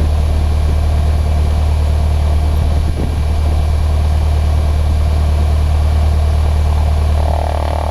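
Cessna 152's four-cylinder Lycoming engine and propeller running steadily, a loud, even low hum heard inside the cabin.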